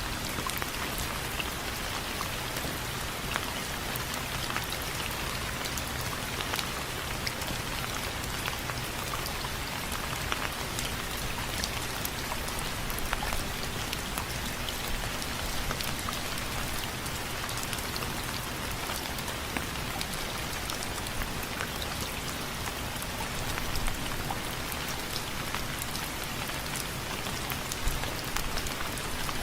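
Steady rain falling on window frames, with many separate drops ticking sharply against them over an even hiss.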